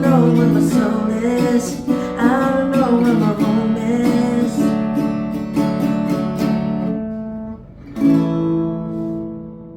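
Acoustic guitar strummed under a sung melody line for the first few seconds. The chords then ring and fade, and a final strum about eight seconds in is left to ring out and die away, ending the song.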